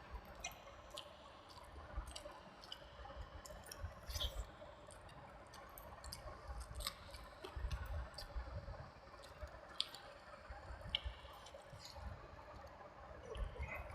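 Close-miked eating sounds: soft wet squishing and smacking of rice and vegetable curry, with scattered small clicks.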